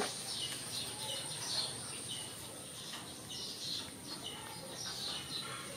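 Small birds chirping: short, high, falling chirps repeated at irregular intervals, over a faint steady high-pitched hum.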